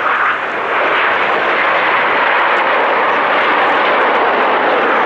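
Aermacchi MB-339 jet trainers of an aerobatic display team flying past, the loud jet noise building up about a second in and then holding steady.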